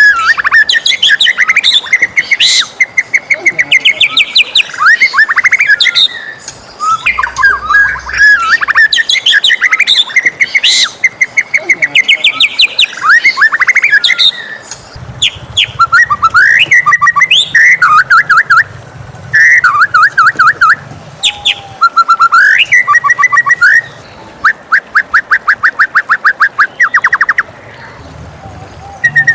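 White-rumped shama singing a loud, varied song: whistled glides, chattering phrases and fast trills of rapidly repeated notes, one phrase after another with brief gaps.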